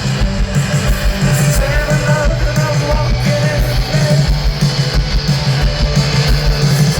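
A live rock band playing, with electric guitars over a steady, driving drum beat.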